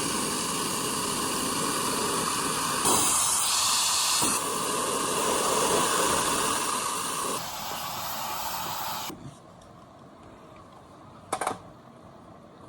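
Hairdryer blowing: a steady rushing hiss that turns brighter for about a second and a half near the start, drops a little later and cuts off about two-thirds of the way in, followed by a short click.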